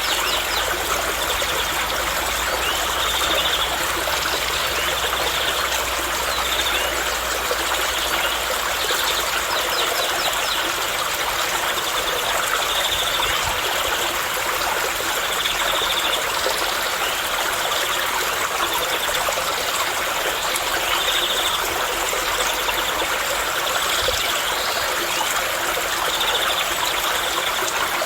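Steady running water, like a small stream, with short high trills repeating every couple of seconds.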